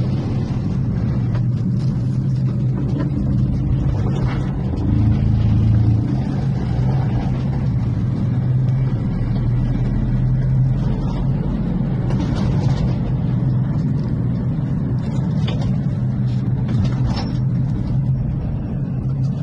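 1995 Honda Acty mini truck's small three-cylinder engine running with a steady low hum, swelling briefly about five seconds in.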